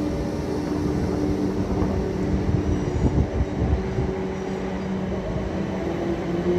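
A train running at the station: a steady rumble under several steady hums, with one hum rising slightly in pitch near the end.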